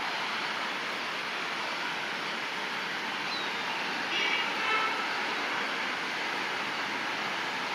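Steady rushing run of two approaching electric trains, a Vande Bharat express and a WAG-9-hauled car carrier, with brief high-pitched horn toots about four seconds in.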